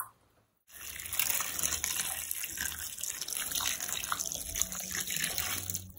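Water running steadily from a tap, starting just under a second in after a brief silence and stopping abruptly near the end.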